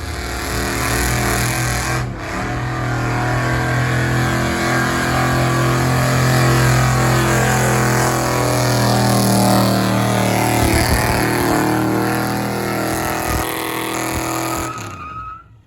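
Gasoline engine of a stock pickup truck running hard under full load while pulling a weight-transfer sled, its pitch holding fairly steady. The sound cuts off abruptly near the end.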